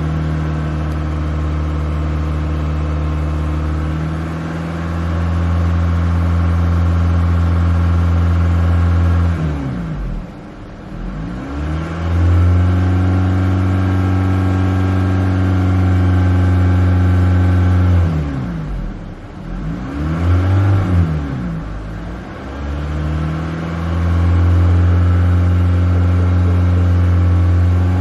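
Honda Civic engine revved and held at steady high revs for several seconds at a time. Twice the revs fall away, then come back up, with a few quick blips of the throttle during the second dip.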